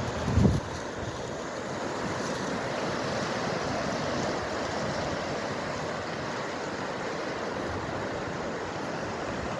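Sea surf washing steadily, mixed with wind, with a brief low buffet of wind on the microphone about half a second in.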